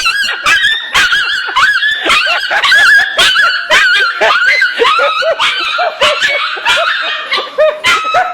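Puppy yelping over and over in short, high-pitched cries, several a second.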